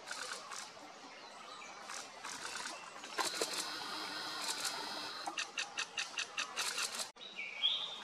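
Birds calling in forest: a rapid run of sharp chips about six a second a little past the middle, then a short whistled note that rises and falls near the end, over scattered clicks and rustles.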